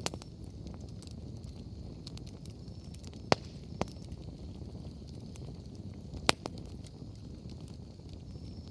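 Wood bonfire burning with a low, steady rumble of flames and scattered sharp pops and crackles from the firewood. The loudest pops come about three seconds in and about six seconds in.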